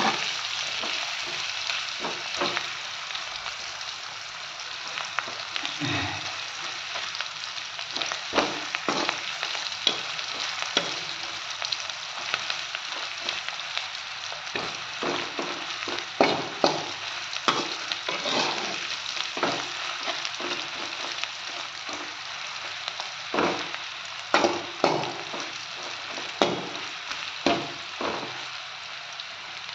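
Dried small fish and sliced onions sizzling in hot oil in a metal wok. A perforated metal spatula scrapes and knocks against the pan in bursts as it is stirred.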